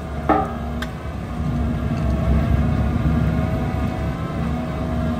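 Bobcat T86 compact track loader running steadily under load while its forestry mulcher rotor grinds deep into stumps and roots, a low rumble with a steady engine hum. A brief sharp sound stands out about a third of a second in.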